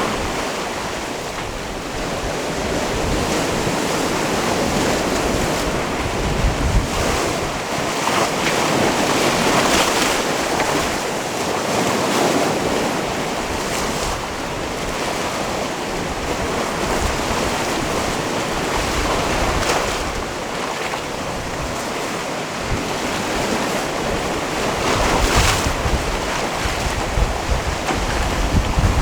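Sea waves washing against a rocky shore, a continuous surf that swells and falls back every few seconds. Wind buffets the microphone with low rumbles a few seconds in and again near the end.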